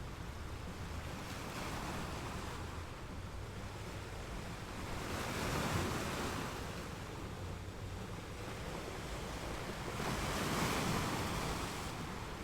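Ocean surf on a beach: a steady wash of waves, with two bigger waves breaking and surging about five and ten seconds in.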